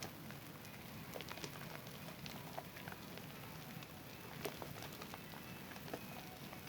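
Wet hands lathering a bar of Zest soap: a steady wet squish with many small irregular crackles of popping lather.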